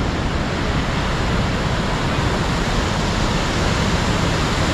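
Waterfall rushing, a loud steady roar of falling water with no breaks or changes.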